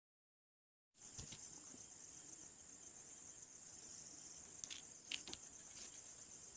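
Steady high-pitched insect chirring that cuts in after dead silence about a second in, with a few light clicks around the middle.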